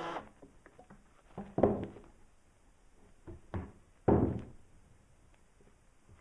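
A few hollow wooden knocks and thuds, pieces of lumber being handled and set against the frame of a workbench, the loudest about four seconds in.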